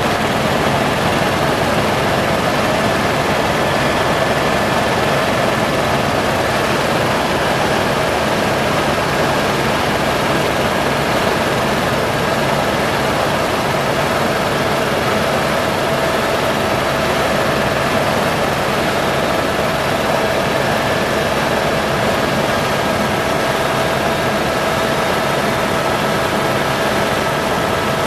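Helicopter in flight: a steady, loud noise of engine and rotors with a few even whining tones running through it, unchanging throughout.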